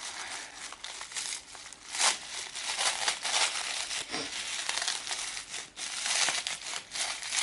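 A wrapped advent calendar gift being unwrapped: the wrapping crinkles and tears in irregular rustles.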